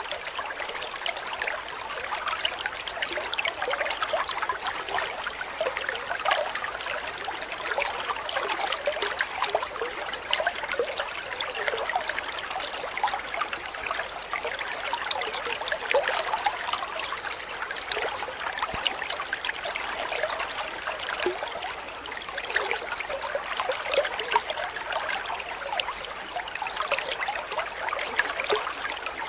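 Running water trickling and babbling steadily, like a small stream.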